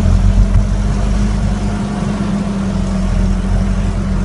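Fendt 720 tractor's six-cylinder diesel engine running without an exhaust, giving a loud, unmuffled steady note with a slight swell in level about half a second in.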